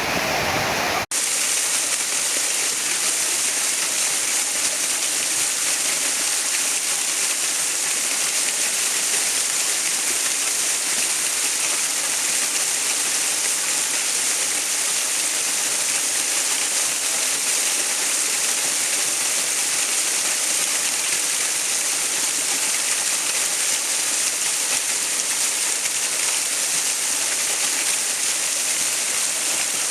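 Steady rushing water, a dense even hiss strongest in the high end. About a second in it drops out for an instant and resumes hissier, with less low rumble.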